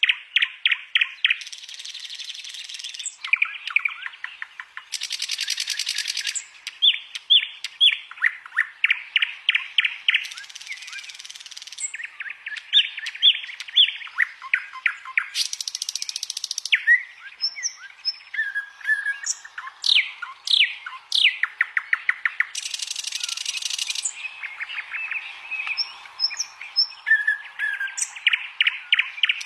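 Songbird song in alternating phrases: fast runs of sharp repeated notes, dry buzzy rattles lasting a couple of seconds each, and short whistles.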